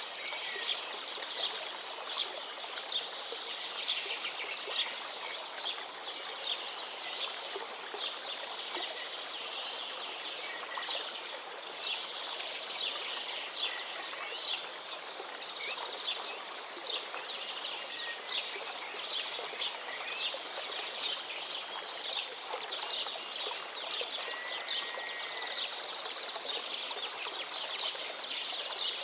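River water running over rocks, a steady babble full of small splashes and gurgles. A few faint bird calls come through near the middle and end.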